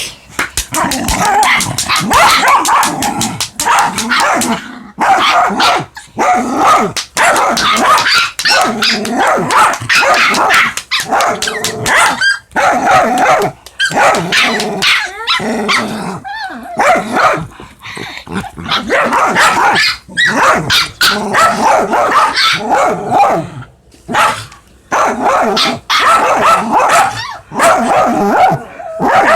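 Dogs play-fighting: loud, almost unbroken growling and barking in quick bursts with brief pauses. It sounds ferocious, but it is rough play, not a real fight.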